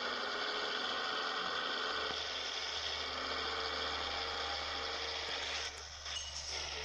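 Scania 111 truck's 11-litre six-cylinder diesel engine running steadily under way. The sound drops briefly about six seconds in.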